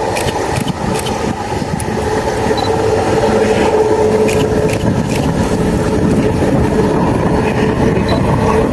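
Jet airliner engines running, a loud steady rush with a held hum that grows louder about two seconds in.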